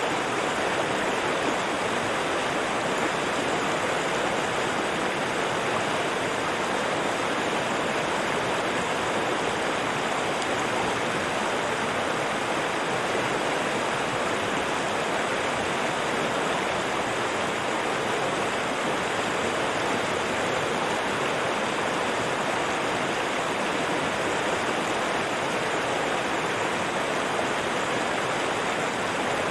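River water rushing and babbling over rocks, a steady, even rush.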